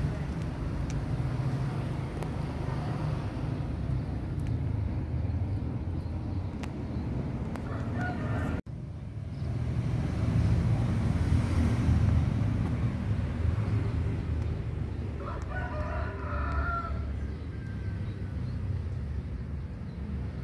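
Steady low outdoor rumble with a bird call twice, a short one just before the middle and a longer one of over a second about two-thirds in. The sound cuts out briefly just before the middle.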